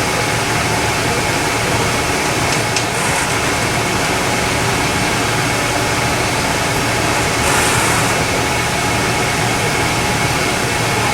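A steady mechanical drone with a few faint steady tones, and a couple of light clicks about three and eight seconds in.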